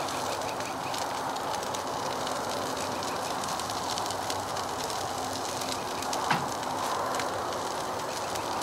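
Portable butane camp stove burning under a Jiffy Pop foil pan of sausages and hash browns, a steady rushing hiss with the fine crackle of frying food. A single knock a little past the middle.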